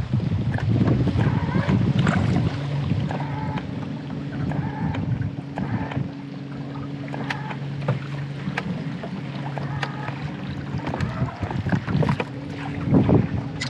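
Small boat on a river, with water sloshing against the hull, wind on the microphone and scattered knocks. A steady low hum starts about two seconds in and stops near the end.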